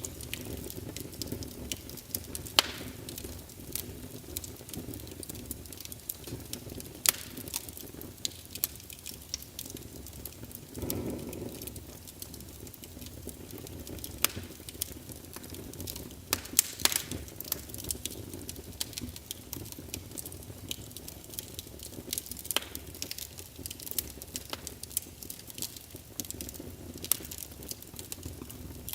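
Wood fire burning in a fireplace: a steady low rumble with irregular sharp crackles and pops from the logs, and a brief soft whoosh of flame about eleven seconds in.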